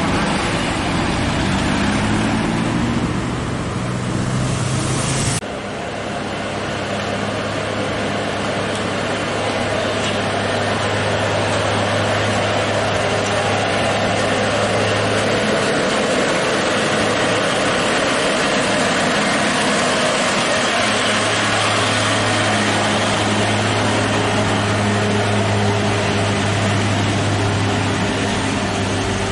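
Dump truck's diesel engine running hard on a steep uphill climb at full throttle, a steady low drone with road noise. The sound changes abruptly about five seconds in, and the low engine note fades for a few seconds past the middle before coming back.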